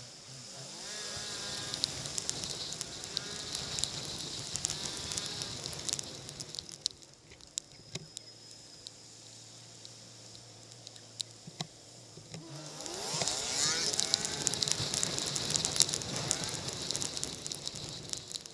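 Motorcycle ride: the engine revs up repeatedly as the bike pulls away, then runs at a steady low idle for several seconds at a stop, then revs up again. Throughout there is a crackling hiss of wind and light drizzle on the camera, dotted with small ticks.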